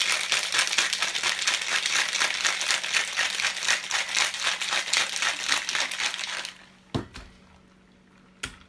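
Cocktail shaker shaken hard, its contents rattling in a quick, even rhythm of about four to five strokes a second for some six seconds, then stopping. Two short knocks follow near the end.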